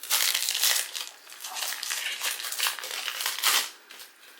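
Plastic trading-card pack wrapper crinkling in a run of bursts as it is handled and opened, stopping shortly before the end.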